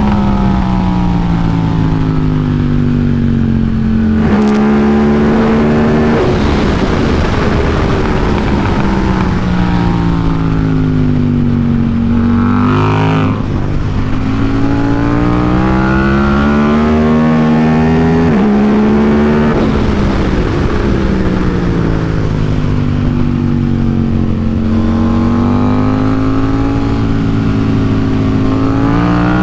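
KTM RC8C's 889 cc parallel-twin engine being ridden hard on track, revs climbing through the gears with sudden drops at upshifts about 4, 6, 13 and 19 seconds in, and revs falling away between the pulls. A steady hiss of wind runs under the engine.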